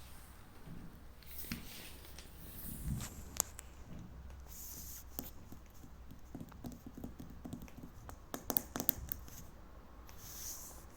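Scattered close-up rustling and light taps from movement, with a soft thump about three seconds in and a quick run of sharp clicks near the end.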